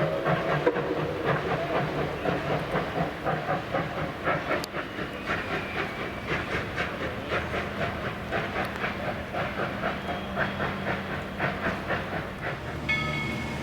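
Tweetsie Railroad's narrow-gauge steam locomotive No. 190 working along with steam hiss and a run of sharp repeated strokes, just after a whistle blast ends at the start. Near the end a bell rings repeatedly.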